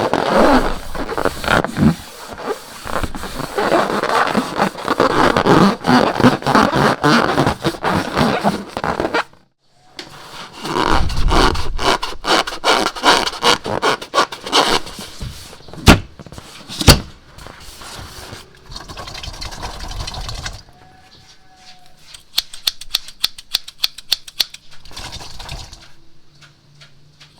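Slime being worked by hand among balloons: dense scraping and crackling, a short pause, then more handling with two sharp clicks and later a quick run of regular clicks.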